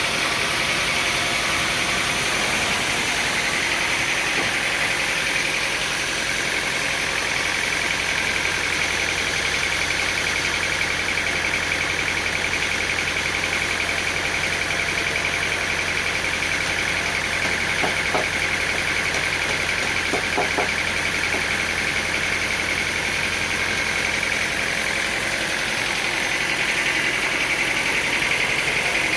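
An engine running steadily under no change of speed, with a high whine over its low hum and a couple of faint brief squeaks about two-thirds of the way through.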